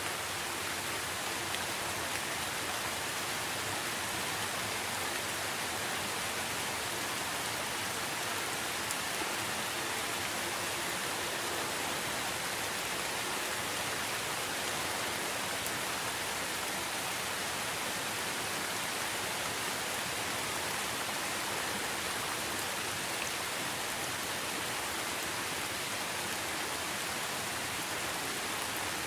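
Steady rainfall, an even hiss of rain without a break.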